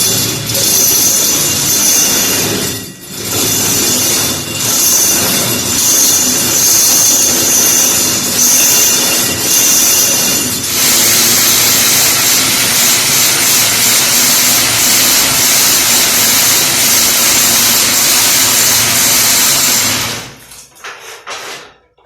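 Electric power drill running under load, boring through a brick wall, with brief let-ups and a change in pitch about halfway. It stops about two seconds before the end.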